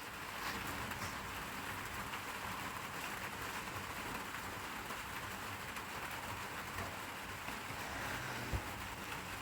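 Steady heavy rain falling, an even hiss, with a single dull thump near the end.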